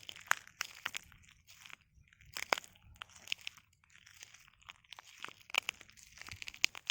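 Footsteps in flip-flops on a beach of loose shells: each step crushes the shells with a crackly crunch, about one step a second, irregular in strength.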